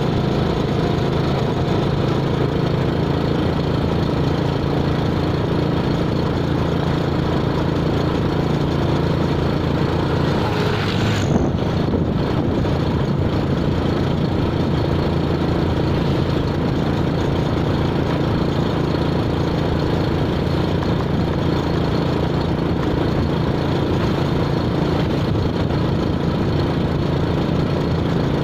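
A vehicle engine running steadily with an even hum, with a brief change in the sound about eleven seconds in.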